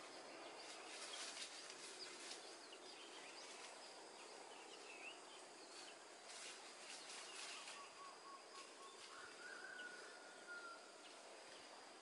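Quiet outdoor background with faint, distant bird calls: a few short chirps and, in the last few seconds, a thin whistled note held for about a second.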